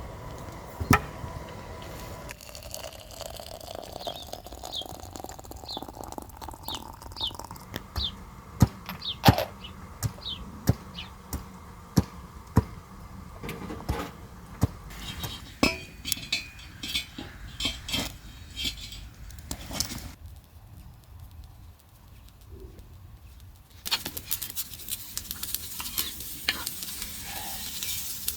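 Cookware and utensils clinking and knocking in a series of separate sharp strokes. Near the end a steady hiss sets in as food begins to sizzle in a pan.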